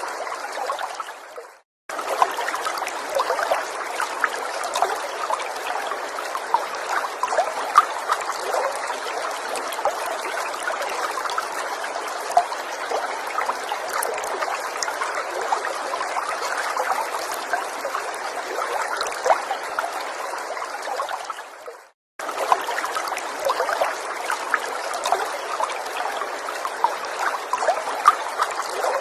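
Small forest stream trickling and bubbling steadily over stones. It fades out and drops to silence briefly twice, about two seconds in and again near twenty-two seconds, then comes straight back.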